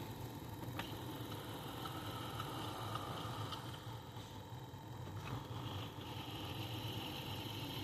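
Steady low hum of an idling car with its ventilation running, with a faint single click about a second in and another about five seconds in.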